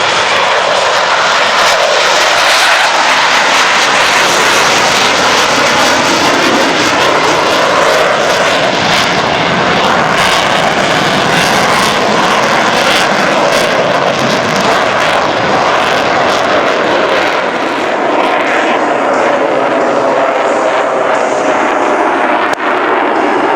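Jet noise from Blue Angels F/A-18E/F Super Hornets, their twin General Electric F414 turbofans loud and steady as the jets fly by, the sound slowly sweeping in tone during the second half.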